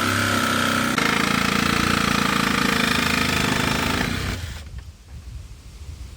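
Electric saw with a reciprocating blade cutting a window opening in a box truck's wall. It runs steadily at speed, then winds down and stops about four seconds in.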